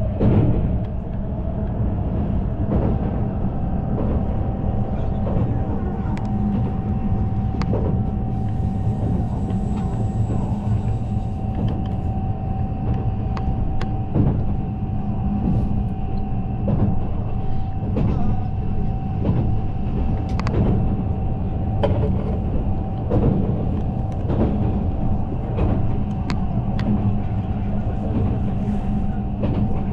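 Japanese passenger train running along the track, heard from aboard: a steady low rumble with a constant whine and scattered clicks and knocks of the wheels on the rails.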